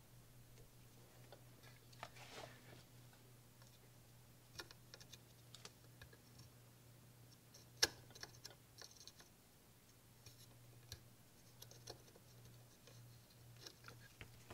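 Faint small clicks and taps of a coin-cell battery and a pointed tool being handled against a circuit board, over a low steady hum; one sharper click a little before halfway.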